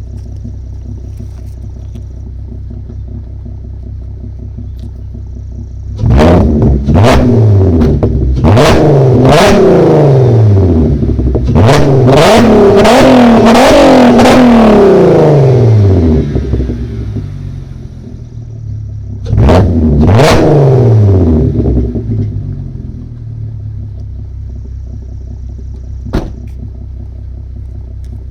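2007 Audi A3 3.2 quattro's VR6 engine, heard through a Mk5 Golf R32 exhaust, idling and then revved in a run of quick blips about six seconds in. It drops back to idle, is revved once more about twenty seconds in, and settles to a steady idle.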